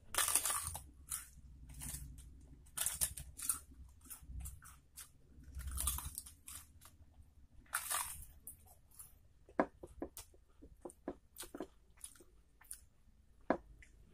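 Close-miked crunching and chewing of crisp fried papad (papadum): a string of sharp, brittle crunches, giving way in the later seconds to shorter, sharper mouth clicks as the bite is chewed.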